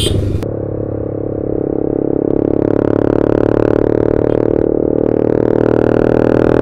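TVS Apache RR 310's single-cylinder engine through an aftermarket SC Project short-can exhaust, running at steady revs under way. The note dips briefly about half a second in, then builds back and holds even.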